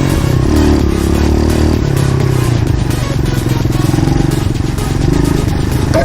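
Pit bike's single-cylinder engine running at low to middle revs with an uneven, choppy note, a sound that the rider takes as something not being right with the bike.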